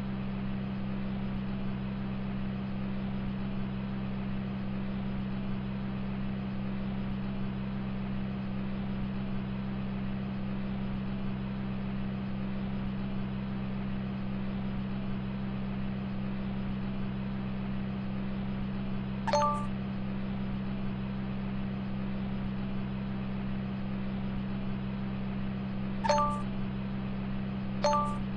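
Steady low drone of a car heard from inside the cabin, with three short electronic dings in the last ten seconds.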